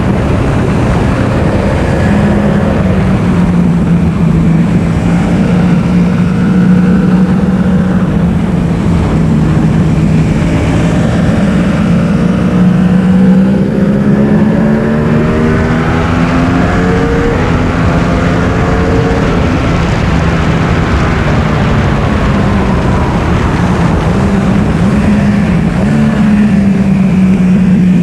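Yamaha R1's inline-four engine running hard on track, its note holding high, with a rise and fall in pitch about halfway through as it is taken up and down through the revs.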